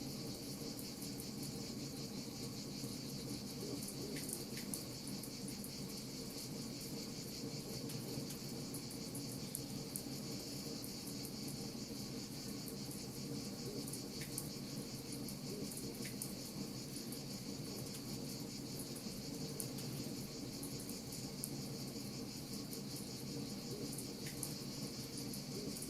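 Wood fire crackling with scattered sharp pops, over a steady high chirring of insects and a low steady rushing.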